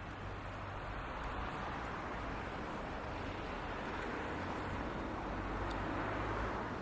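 Low engine hum under a steady wash of noise, slowly growing louder.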